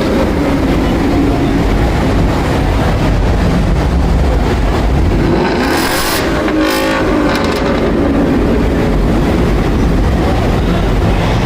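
Car engines running in a loud, steady rumble, with a brief louder burst of engine sound about six seconds in.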